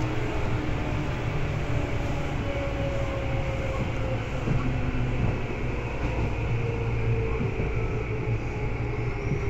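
Seibu 2000 series electric commuter train running, heard from inside the car: a steady rumble of wheels on rail with a faint whine from the drive that slowly falls in pitch as the train eases off speed, and a few light knocks.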